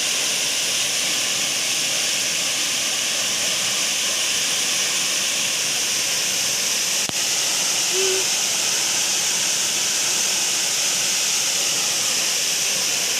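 A waterfall over 80 metres high pours with a steady, unbroken rush of falling water. A single brief click comes about seven seconds in.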